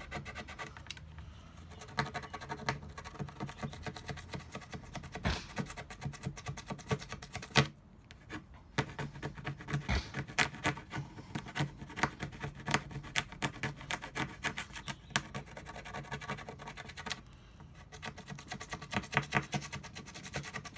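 Plastic scraper scraping WD-40-softened adhesive tape residue off a motorcycle fairing in many short, repeated strokes, with two brief pauses.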